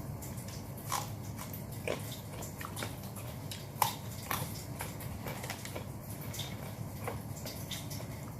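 A person eating grilled chicken close to the microphone: chewing with scattered wet mouth clicks and smacks, the loudest about four seconds in, over a steady low hum.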